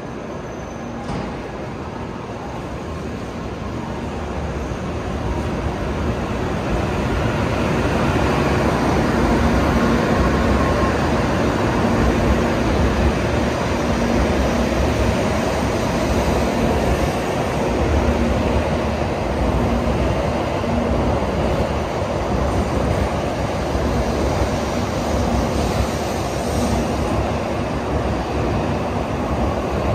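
N700 series Shinkansen train running past, a steady rail rumble that builds over the first several seconds and then holds as the long train goes by.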